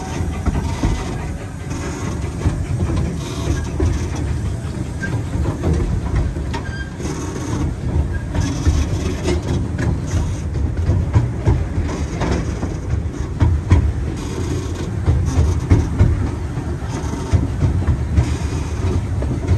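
Amusement-park train rolling along its track, heard from aboard a passenger car: a steady low rumble with scattered clicks and clatter from the wheels and cars.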